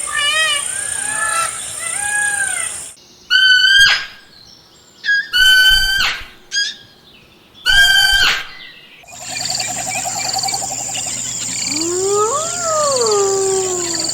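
A succession of different animal calls. First comes a run of short arching chirps, then three loud calls a couple of seconds apart, then a single call that rises and falls about twelve seconds in over a steady background.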